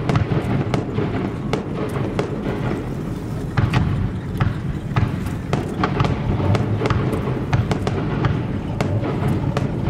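Fireworks display: shells bursting in quick, irregular succession, several bangs and crackles a second over a continuous low rumble.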